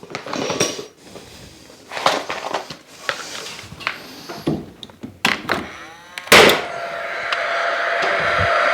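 Timber framing pieces knocked into place in a ceiling cutout: a series of separate knocks over about six seconds, the loudest near the end of the series. Then a small machine starts running steadily and slowly grows louder.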